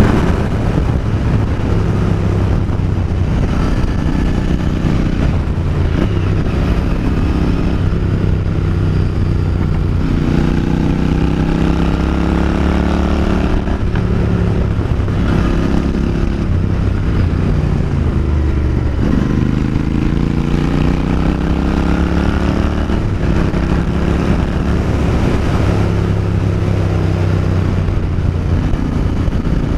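Royal Enfield Continental GT 650's parallel-twin engine running through its exhaust at a steady low beat. Twice the revs climb for a few seconds and then drop back.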